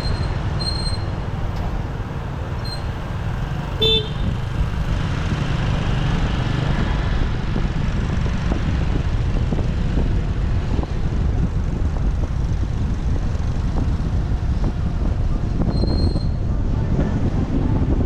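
Steady motorbike and city-traffic rumble with wind on the microphone while riding, a short vehicle horn toot about four seconds in, and brief high beeps near the start and again about sixteen seconds in.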